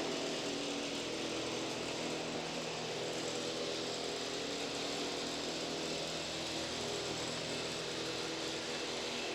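Steady mechanical hum with several held tones over an even hiss, unchanging throughout.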